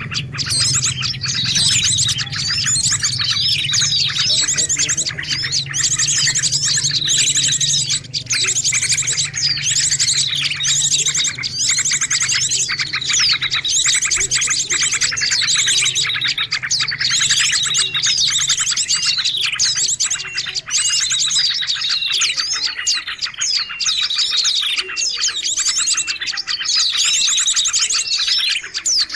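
Dense chorus of many small birds chirping and twittering over one another without a break. This is a bird-lure recording (suara pikat) played to draw in small birds.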